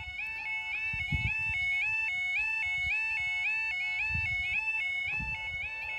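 Level crossing warning alarm sounding steadily: an electronic two-tone alarm stepping quickly back and forth between a higher and a lower note, warning road users that a train is approaching.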